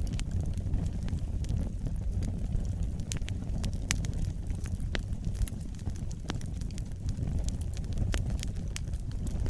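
Wood fire burning, with a steady low rumble of flame and many sharp, irregular crackles and pops of burning wood.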